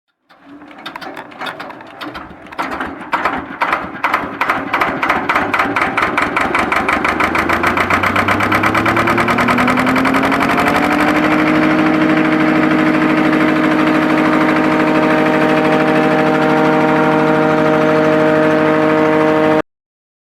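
An engine starting up: slow separate firing knocks that quicken over about ten seconds until it runs at a steady speed with an even hum. It then cuts off abruptly near the end.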